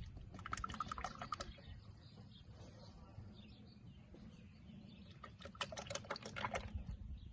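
Motor oil glugging out of a bottle into an engine's oil filler neck, in two spells of quick gurgling clicks as the last half quart is topped up.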